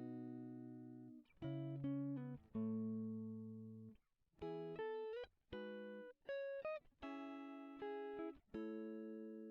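Guitar music: slow chords plucked one at a time, each ringing out and fading before the next, with a couple of notes sliding up in pitch.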